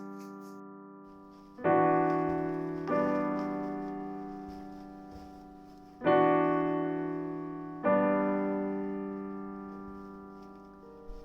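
Background music: slow solo piano chords, each struck and left to ring and fade, four chords in all.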